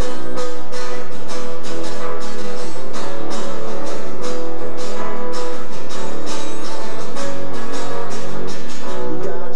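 Guitar strummed in a steady rhythm, several strokes a second, playing chords: an instrumental passage of a song.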